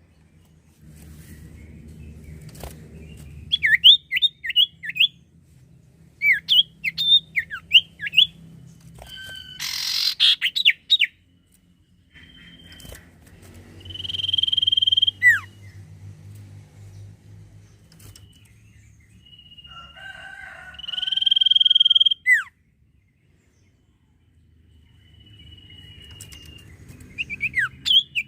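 Common iora (sirtu, cipoh) singing: bursts of quick, sharp down-slurred chirps alternating with long drawn-out whistled notes. There is a short rustle about ten seconds in.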